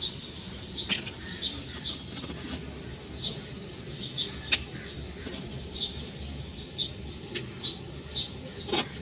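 Short high chirps repeating irregularly, one or two a second, like a small bird calling, over a low steady hum, with one sharp click about halfway.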